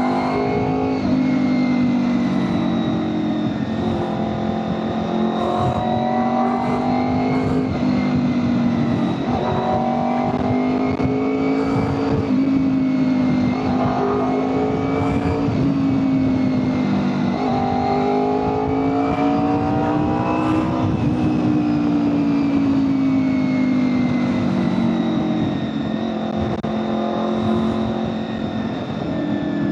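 2001 Honda VFR800FI Interceptor's V4 engine pulling on the road, its pitch rising and falling again and again with the throttle. Heavy wind noise buffets the microphone throughout.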